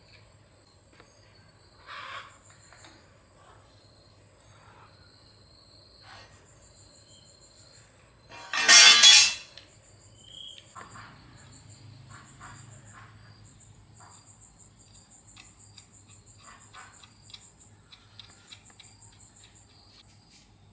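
Insects chirping in a steady high trill, with scattered small clicks and knocks. About eight and a half seconds in comes a sudden loud burst of noise lasting about a second.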